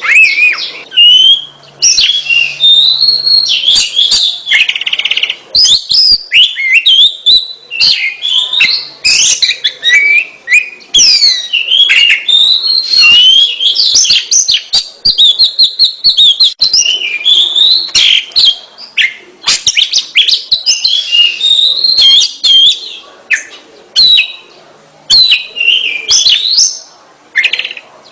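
Oriental magpie-robin singing continuously: a fast, varied run of clear whistles, rising and falling glides and quick trills, with a harsh rattling phrase about five seconds in and many sharp ticks between the phrases.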